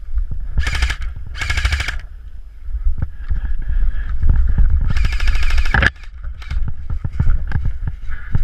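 Airsoft gun firing three full-auto bursts of rapid shots: two short ones close together near the start and a longer one about five seconds in. A low rumble and scattered single clicks run underneath.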